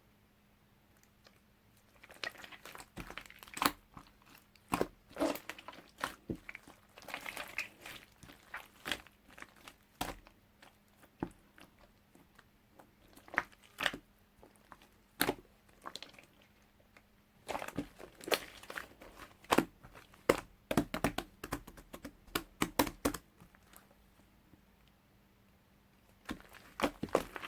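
Hands working craft clay and handling materials: irregular taps, clicks and crinkling rustles in bursts, with a few pauses, over a faint steady hum.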